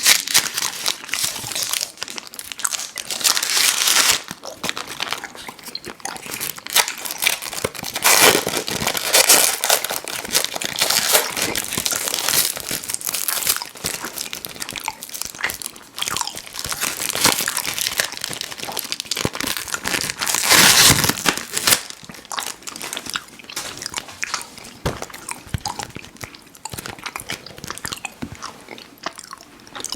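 Close-miked chewing and mouth smacking of chewy fruit candies such as Airheads Bites and Tootsie fruit chews, with a few louder bursts of crinkling packaging.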